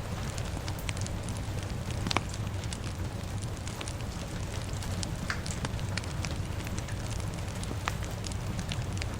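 Fire crackling with scattered pops, one louder pop about two seconds in, over a steady rushing rain ambience with a deep low rumble.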